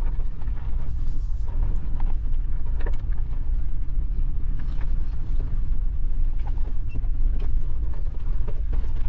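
Suzuki Jimny driving slowly over a rough mountain track, heard from inside: a steady low rumble of engine and tyres with scattered faint creaks and rattles from the body.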